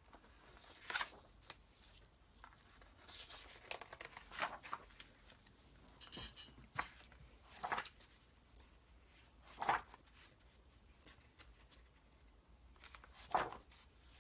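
Loose paper illustration sheets being handled and turned over: a series of short paper rustles and flaps a second or a few seconds apart, the loudest about two-thirds of the way through.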